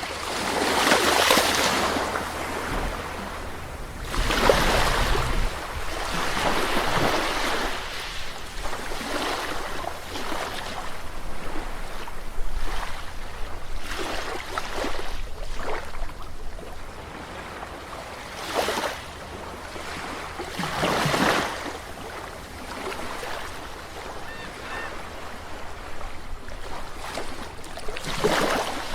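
Calm sea waves washing onto a beach, one swell after another swelling up and fading away at uneven intervals, over a steady low rumble of surf.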